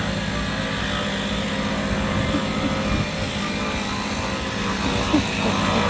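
A steady mechanical drone of a running motor, with an even low hum that does not change.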